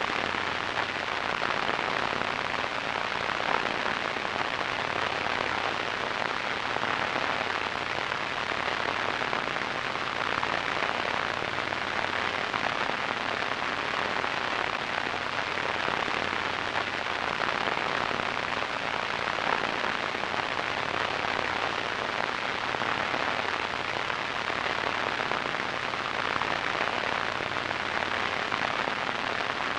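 Radio static: a steady, even hiss with a fine crackly grain, strongest in the middle and upper-middle range.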